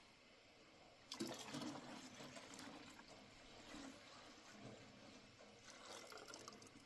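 Faint running or pouring water that starts suddenly about a second in, eases off midway and swells again near the end.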